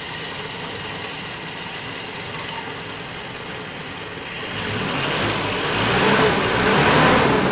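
Old owner-type jeep's engine running, brought back to life after more than five years unstarted: a steady idle that gets louder about two-thirds of the way in as it picks up speed.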